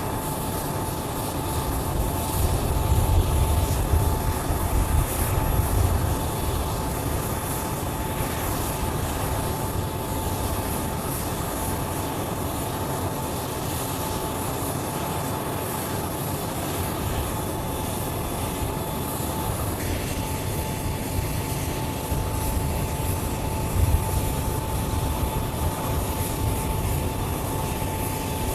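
Jet aircraft engines running: a steady rumble and hiss with a constant whine. The low rumble swells a couple of seconds in and again briefly near the end.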